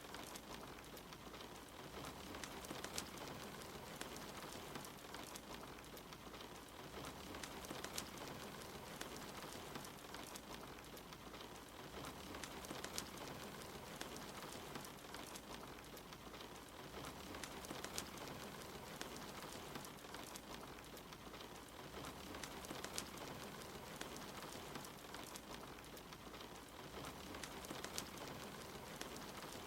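Steady rain with the scattered snaps and crackles of a wood fire. A faint low hum swells and fades about every five seconds.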